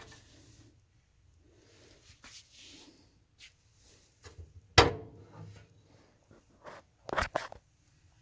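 Handling noise: faint rustling, one sharp knock about halfway through, and a quick run of two or three knocks near the end.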